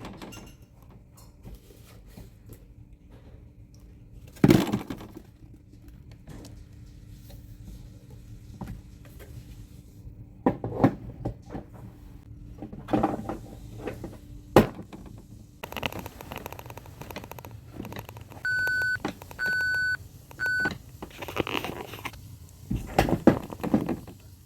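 Scattered clattering knocks of toys being handled, and about three-quarters of the way through three electronic beeps at one steady pitch, the middle one the longest, from a toy trash truck's sound feature.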